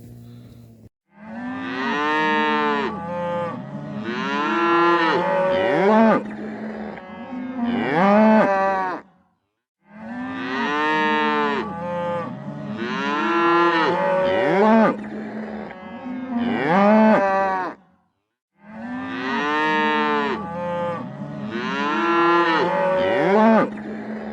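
Cattle mooing, a string of pitched calls. The same stretch of calls plays three times over with a short gap between each, as if looped.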